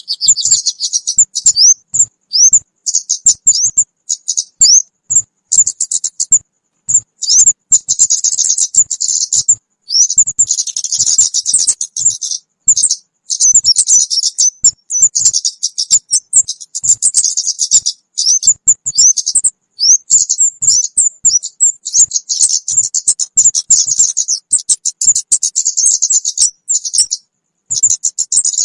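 Kemade bird chirping and twittering: a lure-call recording of rapid, high-pitched notes and short sweeps in quick bursts separated by brief pauses.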